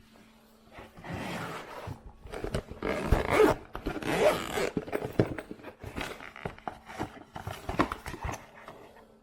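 Irregular handling noise: rustling, scraping and sharp clicks, as if things are being picked up and fitted together, over a faint steady hum.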